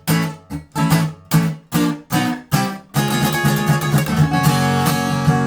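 Acoustic guitar strumming an instrumental break between sung lines. For about three seconds it plays short, clipped chord strokes with gaps between them, then it moves into fuller, ringing strummed chords.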